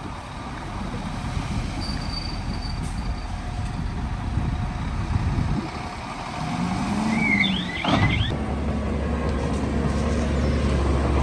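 Heavy diesel earthmoving machinery running at a construction site, a steady low rumble with the engine note rising and falling about two-thirds of the way in. A brief high squeal and a sharp clunk come just after, then the engine settles into a steadier low drone.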